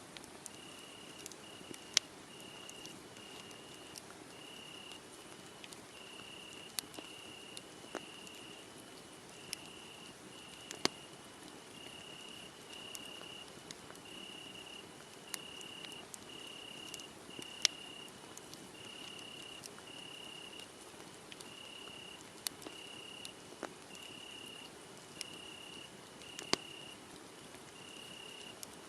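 Wood fire crackling, with sharp pops scattered irregularly, over crickets chirping in a steady high pulse just under once a second.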